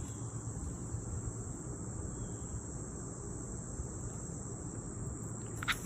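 A steady, unbroken high-pitched tone like an insect's trill, over a low hum, with a short click near the end.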